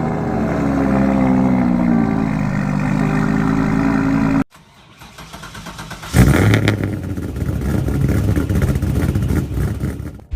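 Car engine cold starts: a first engine runs at a high fast idle, its pitch sagging and rising, and cuts off abruptly about four and a half seconds in. After a short quieter stretch a second, rougher engine fires at about six seconds and runs loud until the end.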